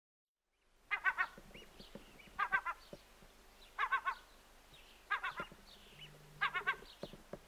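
A bird calling overhead: a harsh call of four or five quick notes, repeated about every one and a half seconds from about a second in, five times, with fainter higher calls between.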